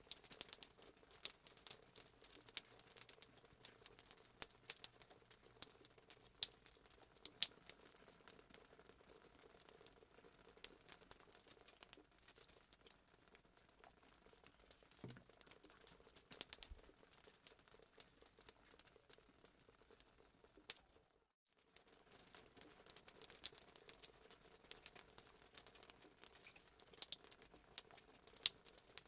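Fireplace sound effect: a wood fire crackling with frequent small pops and snaps over a soft hiss. The sound drops out completely for a moment about two-thirds of the way through.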